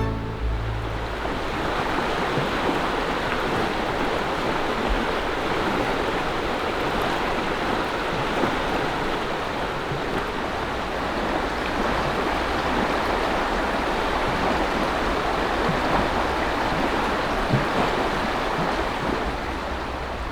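Steady rushing of flowing river water, with a few faint knocks scattered through it.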